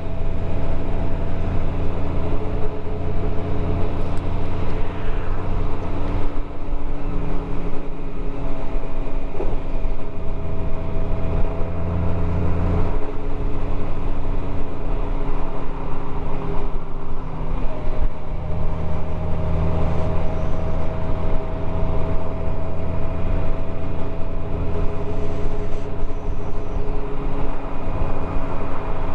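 Motorcycle engine running at a near-steady pitch, picked up by a camera mounted on the bike, with a deep rumble that swells and fades several times.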